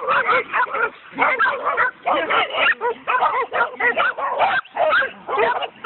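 Coon dogs barking and yipping in rapid, overlapping bursts as they worry a raccoon they have caught.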